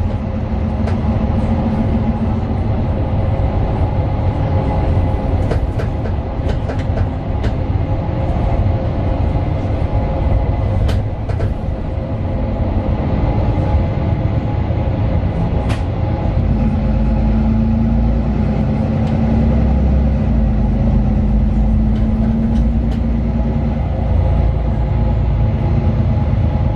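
Inside the cabin of a Mercedes-Benz Citaro 2 city bus under way: the OM 936LA inline-six diesel and ZF Ecolife automatic running with a steady deep rumble and whine, plus occasional short rattles. A stronger engine tone comes in about sixteen seconds in and fades near the end.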